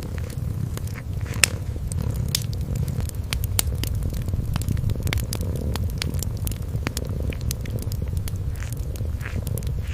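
A kitten purring in a low, steady rumble, with the frequent sharp crackles and pops of a wood fire over it; one pop about a second and a half in is the loudest.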